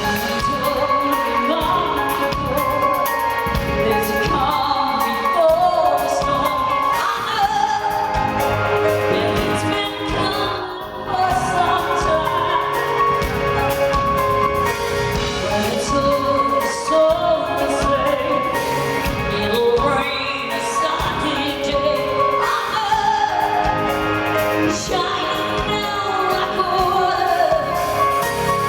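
Live rock band playing a mid-tempo song, with a woman singing the melody over sustained keyboard and guitar chords.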